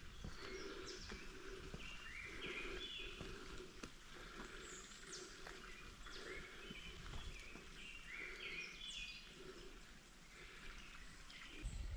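Faint chirping and calling of small birds, many short repeated notes and quick glides, over a low steady outdoor background.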